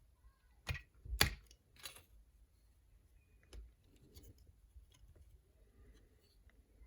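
Plastic parts of a Transformers action figure being handled and clicked. There are three sharp snaps in the first two seconds, then a few lighter clicks and rustling.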